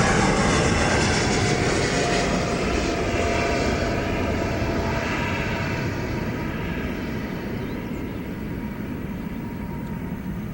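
Airbus A320-211 airliner's twin CFM56 turbofan engines on landing approach: a steady jet rumble that fades as the aircraft passes and moves away, its high hiss dying out first around the middle.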